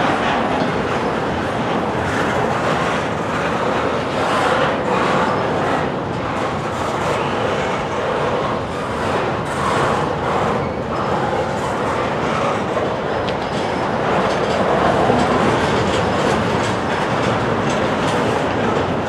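Double-stack intermodal well cars of a freight train rolling past, steel wheels running on the rails with a steady rolling noise and clatter.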